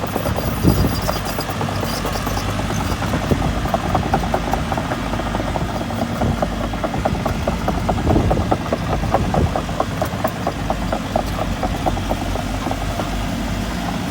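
Caterpillar excavator's diesel engine running steadily as the machine travels on its tracks, with a rapid, continuous rattle.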